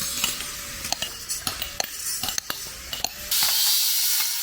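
Hammers striking chisels on stone as workers carve stone steps: irregular sharp metallic clinks over a steady hiss that gets louder about three seconds in.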